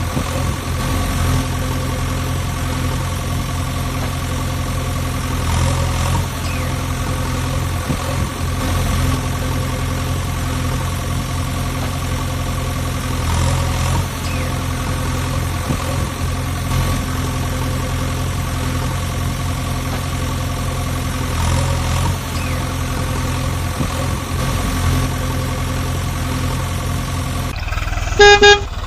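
Diesel engine running steadily at idle, swelling slightly about every eight seconds. Near the end a vehicle horn gives a short, loud toot.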